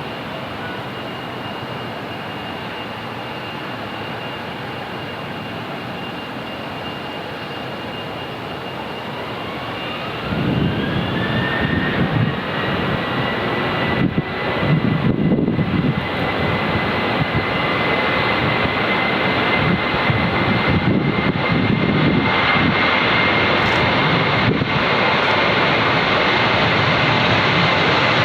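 Jet airliner engines spooling up: a steady whine, then about a third of the way in a whine that rises in pitch and holds high while a louder rumble sets in and keeps on.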